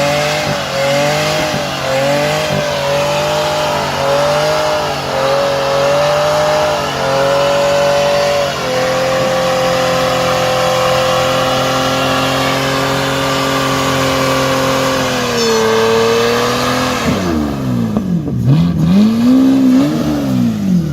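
V12 engine (M73B54) of a BMW E36 held at high revs during a burnout, its pitch wavering slightly for the first eight seconds or so, then steady, with the rear tyres spinning against the ground. Near the end the revs drop and it is blipped up and down a few times.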